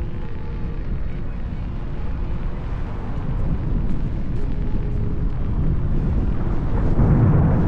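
Wind buffeting the action camera's microphone during an electric unicycle ride: a dense low rumble that grows louder toward the end.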